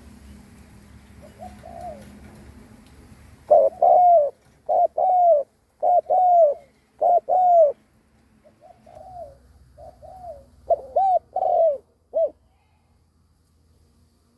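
Spotted dove cooing: a couple of faint coos, then from about three and a half seconds in a loud run of short and drawn-out arched coos that stops about twelve seconds in. This is a decoy bird's bowing coo, used to provoke wild doves.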